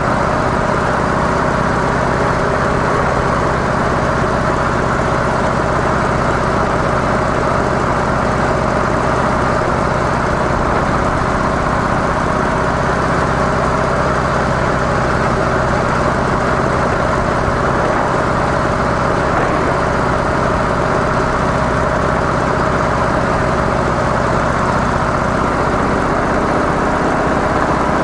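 Harley-Davidson CVO Softail Deluxe's Twin Cam 110 V-twin, through its stock mufflers, running steadily at an unchanging engine speed, loud and even throughout.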